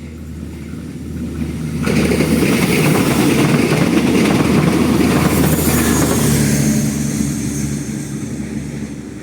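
Passenger train hauled by a CC 206 diesel-electric locomotive passing close by. The rumble and rail noise rise sharply about two seconds in, stay loud for several seconds, then fade toward the end.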